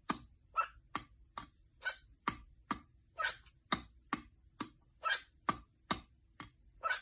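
A steady run of sharp taps or knocks, a little over two a second, some ringing slightly longer than others.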